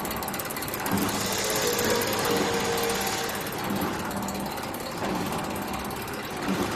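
Razor-wire mesh welding machine running: steady mechanical clatter, with a hiss that swells about a second in and lasts about two seconds.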